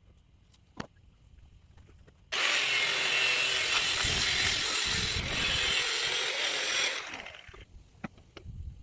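A handheld power tool runs in one steady, harsh burst of about four and a half seconds, switching on suddenly about two seconds in and winding down near the end, with a few light clicks before it.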